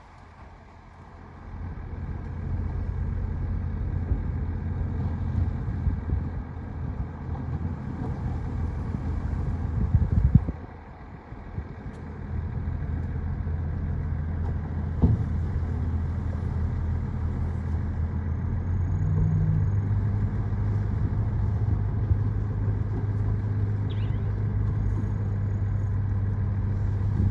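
Heavy diesel earthmoving machinery running under load, a steady low engine drone. It swells about a second and a half in and drops away briefly just after ten seconds in before building back up, with a few short knocks.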